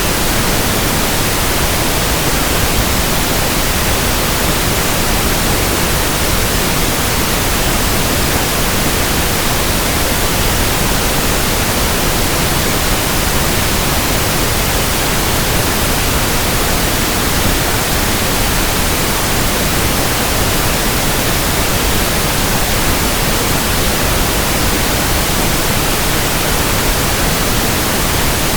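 Pink noise: a steady, even hiss spread across the whole range from deep to high, with no change in level.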